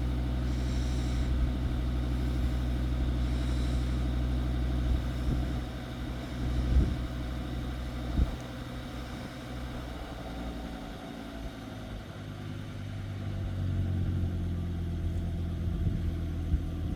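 Volvo XC70 2.5T's turbocharged five-cylinder engine idling steadily, still cold from a cold start, with a couple of brief knocks about seven and eight seconds in.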